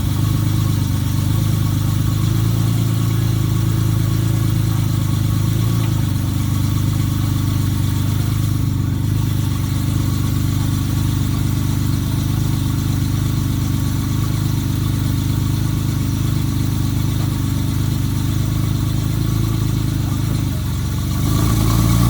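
Ferrari 512 BBi's fuel-injected flat-twelve engine idling steadily, with the revs beginning to rise near the end.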